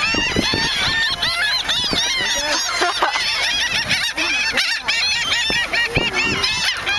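A flock of gulls calling all at once: many short, overlapping calls that each rise and fall in pitch, going on without a break.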